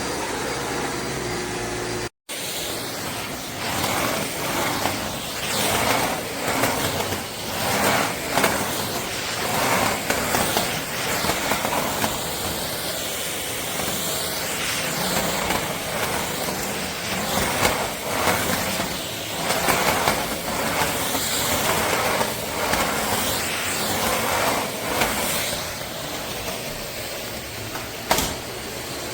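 Eureka WhirlWind bagless canister vacuum cleaner running, its motor and suction noise rising and falling in loudness over and over while it vacuums. The sound cuts out briefly about two seconds in.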